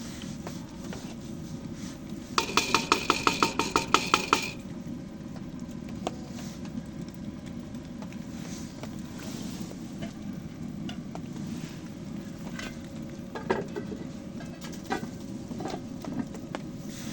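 Metal utensil rapidly clinking against a metal pot or cup, as in stirring, about six ringing strikes a second for two seconds, over a steady low background noise. A few faint clicks follow later.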